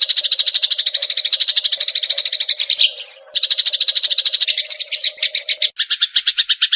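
Sparrows chattering in a fight: a fast, unbroken rattle of harsh notes, about fifteen a second. About three seconds in it breaks briefly for a short clear note, and near the end it resumes with a changed, lower-edged tone.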